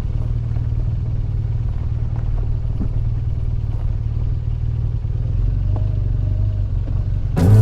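BMW R 1200 GS flat-twin motorcycle engine running at low, steady revs. Music comes in abruptly near the end.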